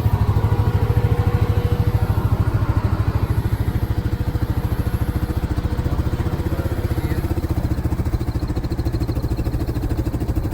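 Vehicle engine running steadily with an even, rapid pulsing beat.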